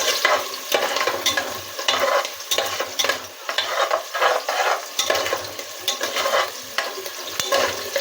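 Onions and garlic frying in hot oil in a pressure cooker, sizzling steadily, while a spoon stirs them with irregular scraping clicks against the pot.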